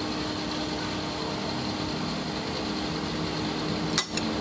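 Engine idling steadily, with one sharp click about four seconds in.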